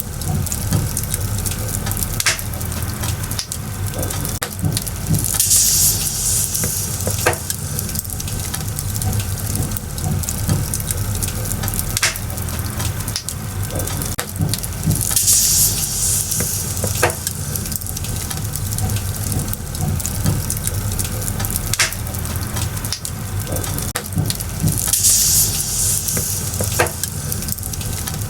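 Firewood burning in a bonfire, crackling steadily with sharp pops and snaps over a hiss and a low steady rumble. A louder hissing surge comes back about every ten seconds, with the same pattern of pops repeating each time, as in a looped recording.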